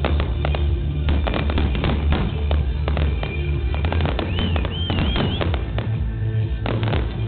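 Fireworks going off in quick succession, a dense run of bangs and crackles, with a warbling whistle about four seconds in. Music plays underneath.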